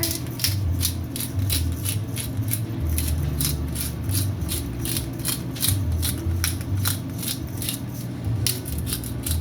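Spice shaker of Italian seasoning being shaken over meat: quick rattling shakes, about three a second, over low background music.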